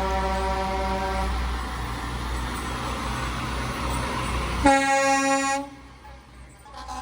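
Emergency vehicle air horn blasts over a heavy engine's low rumble: a held horn tone ends about a second in, then a second, louder horn blast sounds for about a second near the end.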